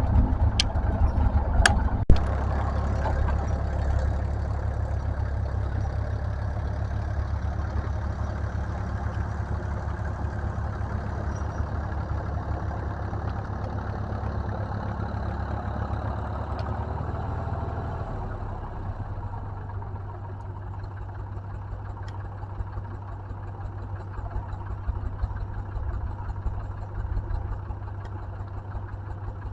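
Tractor engine running steadily at low speed, a little quieter from about two thirds of the way in, with a few sharp clicks in the first two seconds.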